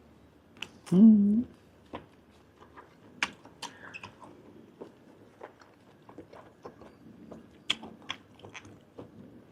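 Close-miked chewing of grilled giant octopus tentacle: wet smacks and clicks of the mouth scattered throughout, with a short hummed voice sound about a second in.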